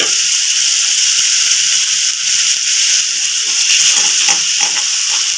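Chopped onions and freshly added ginger-garlic paste frying in hot oil in a wok, a steady high sizzle. About three and a half seconds in, a spatula starts stirring and scraping through them in quick strokes.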